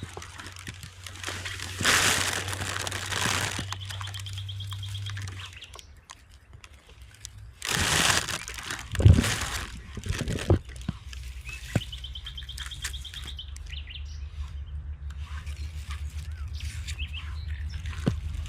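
A small bird singing a fast, high trill twice, each lasting about a second and a half. Two louder bursts of rustling noise come in between, along with a low steady hum.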